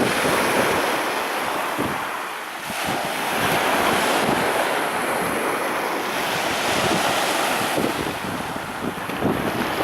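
Black Sea surf breaking and washing on the beach in slow surges, with wind buffeting the microphone in low gusts.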